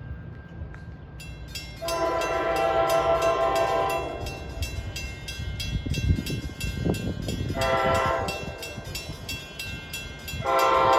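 NJ Transit GP40FH-2 diesel locomotive sounding its multi-chime air horn at speed: a long blast, a short one, then another long one starting near the end. A fast, even clanging runs underneath, with a rise of engine and wheel rumble as it passes in the middle.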